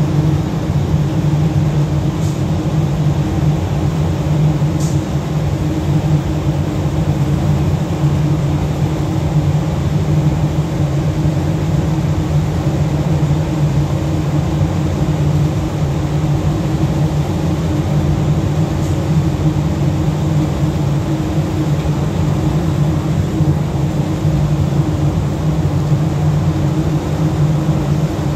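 Cargo ship's engine running steadily under a propeller test: a loud, even, low drone with a constant hum.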